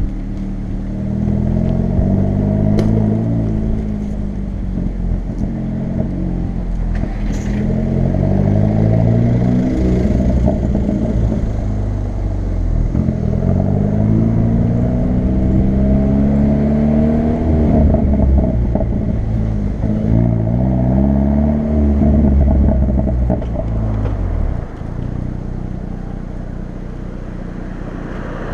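Hyundai i30 N's 2.0-litre turbocharged four-cylinder engine and exhaust in N mode, pulled hard through the gears: the revs climb, drop and climb again about five times, with a few sharp crackles and pops. Near the end it settles to a steadier, lower drone.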